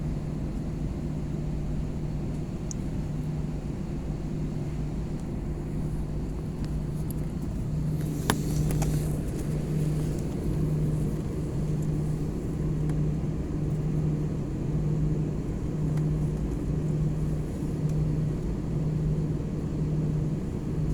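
Airliner cabin noise: a steady low rumble with a hum that starts pulsing about once a second partway through, and a single sharp click about eight seconds in.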